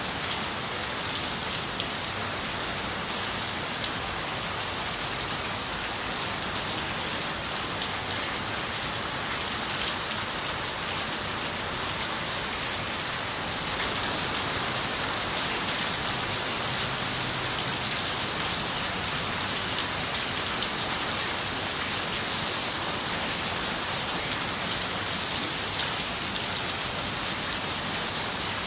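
Steady rain falling on a window: a dense, even hiss with scattered faint drop ticks. It gets slightly louder about halfway through.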